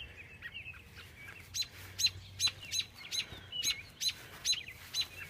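Several small birds chirping: soft twittering at first, then from about a second and a half in a run of short, sharp, high chirps, two or three a second.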